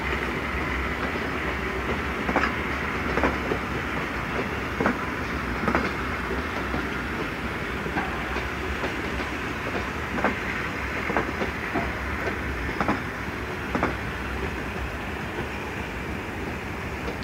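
Steam-hauled train of vintage coaches rolling slowly past, a steady rumble broken by irregular sharp clacks as the wheels cross rail joints, about ten in all.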